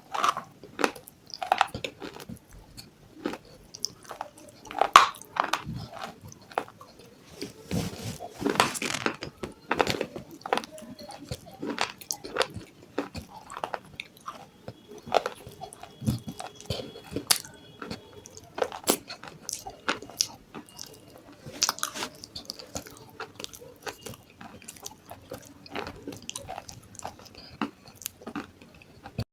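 Close-up crunching and chewing: sharp, irregular bites into brittle pieces of a clay pot (matki), each followed by grinding chews.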